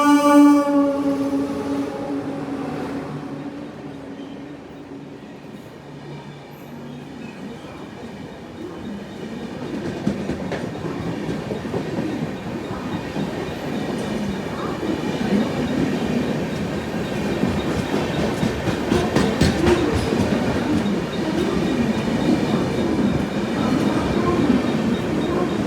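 Train horn sounding a loud held blast that fades away over the first two or three seconds, followed by the rumble of an Indian Railways express train building from about ten seconds in as it passes through at speed, its wheels clattering over the rail joints.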